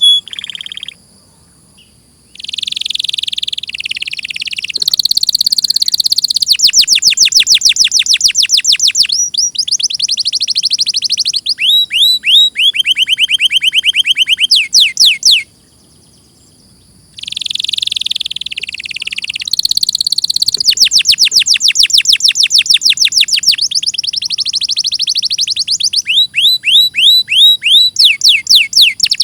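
Domestic canary singing loudly in long rolling trills. Each phrase is a fast run of the same short note repeated many times. The song breaks off twice for a second or two, about a second in and about halfway through.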